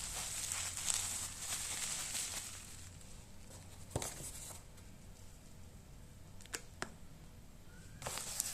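Packaging being handled: crinkling and rustling, stopping after a couple of seconds, with a few sharp clicks in the quieter middle, then crinkling again near the end.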